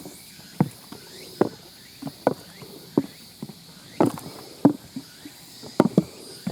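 Footsteps of a hiker walking down a mountain trail, each step jolting a loose monitor on an old handheld video camera so it knocks and clatters. The knocks come irregularly, about one to two a second.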